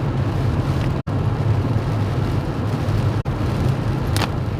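Steady low rumble of a car's engine and tyres heard from inside the cabin while driving. The sound cuts out completely for an instant twice.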